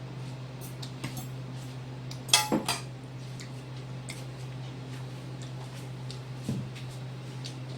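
Eating utensils clinking against a soup bowl: a quick run of three or four ringing strikes about two seconds in and a single softer knock near the end, with faint small clicks between, over a steady low hum.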